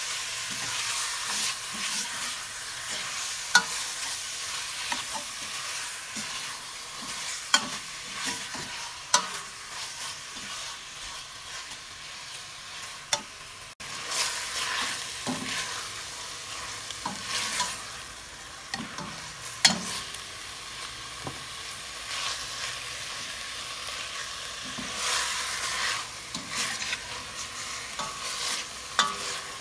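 Beef frying in oil and green curry paste in a stainless steel pot, sizzling steadily while a metal spoon stirs and scrapes it, with sharp clinks now and then as the spoon strikes the pot.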